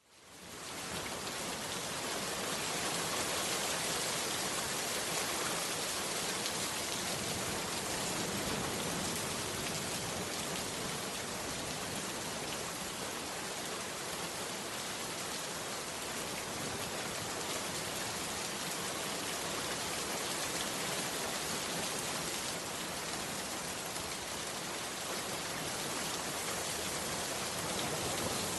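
Heavy rain falling steadily, a dense even patter. It fades in from silence in about the first second.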